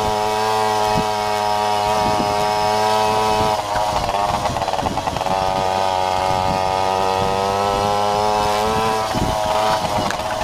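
Babetta moped's 50 cc two-stroke single-cylinder engine running at high, steady revs, dropping briefly off the throttle about three and a half seconds in and again near the end.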